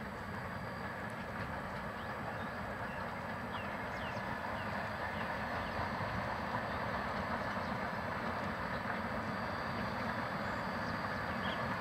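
A 1909 A-class 4-6-2 Pacific steam locomotive working a passenger train at a distance, its running sound a steady rush that slowly grows louder as it approaches. A few faint high chirps are heard over it.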